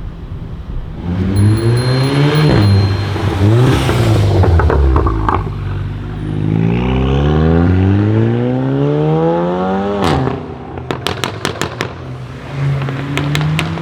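Tuned Volkswagen Golf 7 R's turbocharged 2.0-litre four-cylinder engine, 500 hp: idling, blipped a couple of times, then a long rising pull of about three seconds that cuts off sharply. On lift-off the exhaust fires a quick string of loud pops and crackles before the engine settles back to idle.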